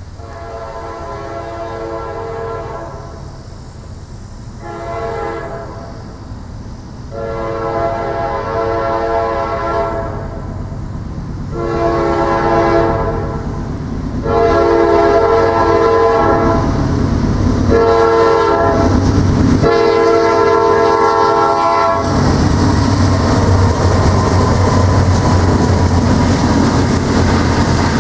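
A locomotive air horn sounds a series of long and short blasts of several tones at once, getting louder as the train approaches. The horn cuts off about 22 seconds in, and the train passes close by with a loud, steady rumble of engine and wheels on rail.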